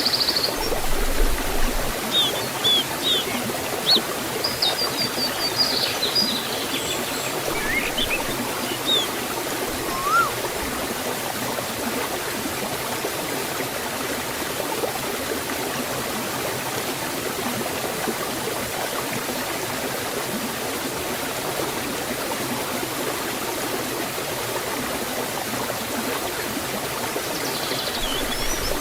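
Forest waterfall and stream running steadily, a constant even rush of water. Small birds chirp briefly over it during the first ten seconds or so and again near the end.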